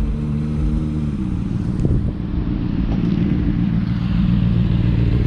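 Vehicle engine running close by: a steady low hum for about the first second, then a rougher, denser engine sound.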